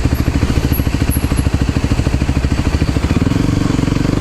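Motor scooter engine running under way, its note shifting about three seconds in.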